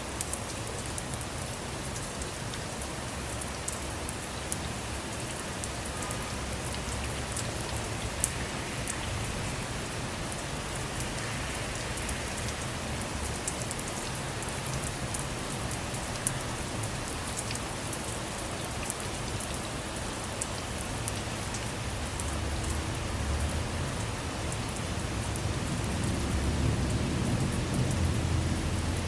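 Steady rain falling on a car, heard from inside, with many small drop ticks. A low rumble of distant thunder swells in the last few seconds.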